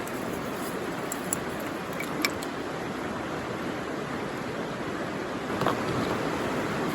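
Wood fire burning in a small handmade fire pit, with a few sharp crackles and pops over a steady rushing noise.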